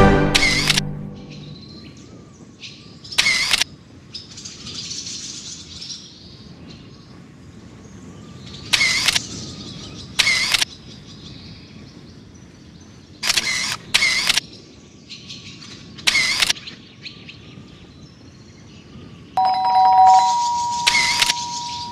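Outdoor ambience with short, sharp bird calls repeating every few seconds over a low background hush. A little before the end, a steady tone comes in, a lower note first and then a higher one held for about three seconds.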